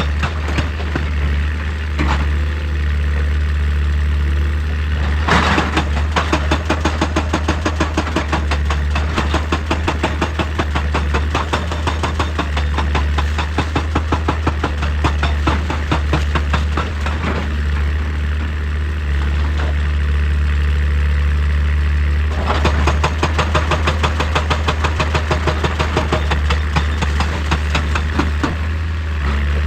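Heavy-machinery diesel engine running with a rapid clatter, its load rising and easing several times as the excavator works.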